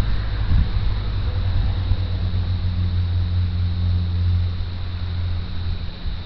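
A 1997 Isuzu Rodeo's six-cylinder engine runs at a steady idle through a custom 2.5-inch exhaust with a high-flow cat and a MagnaFlow muffler, giving a low, even drone. There is a brief dip near the end.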